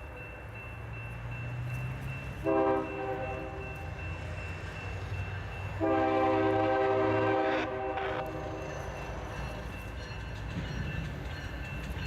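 Diesel freight locomotive's air horn sounding a short blast and then a long one, following a long blast just before: the close of a long-long-short-long grade-crossing signal. A low steady rumble of the passing train runs under it.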